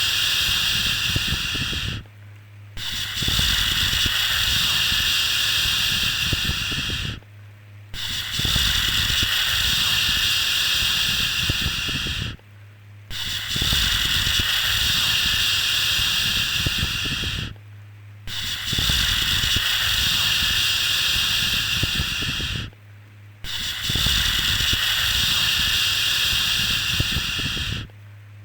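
A long, steady 'shhh' shushing sound for lulling a baby to sleep, repeated over and over: each shush lasts about four and a half seconds, then breaks off for under a second before the next. A faint low hum carries on underneath.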